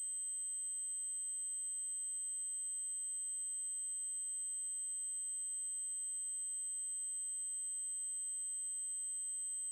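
Synthesized 8192 Hz triangle-wave tone: a single very high-pitched electronic tone held steady without change.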